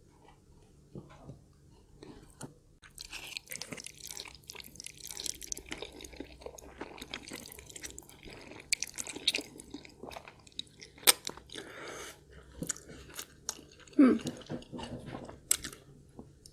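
Close-up eating sounds: wet chewing and slurping of mouthfuls of Korean black bean noodles (jjajangmyeon), with lip and tongue clicks. They start a few seconds in, and there is a short hum near the end.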